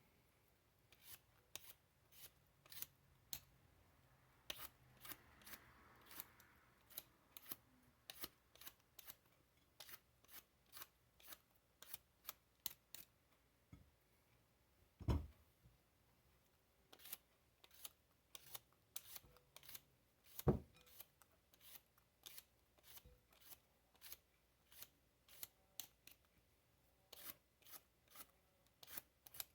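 Faint scraping of cucumbers being peeled, in short quick strokes repeated about once or twice a second, with two louder knocks midway.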